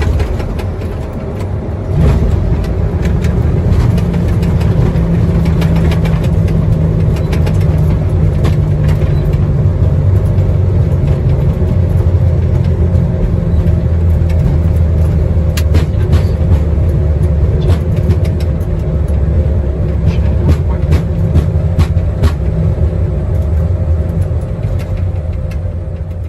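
Loud, steady rumble in an Airbus airliner's cockpit during the landing rollout, rising sharply about two seconds in and fading near the end.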